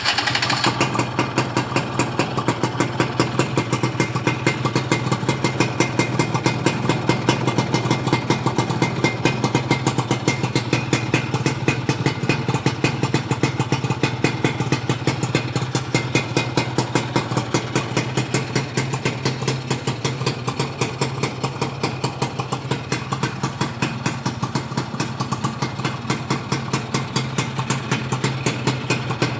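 Yamaha F1ZR's two-stroke single-cylinder engine idling through a KBRS racing exhaust, with a rapid, even exhaust pulse that holds steady throughout.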